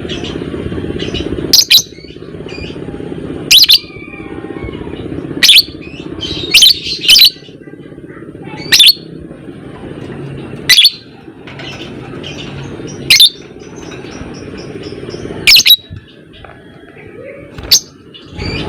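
Lovebird calling: sharp, loud, shrill chirps repeating about every two seconds, with fainter chattering between them and a steady low hum underneath.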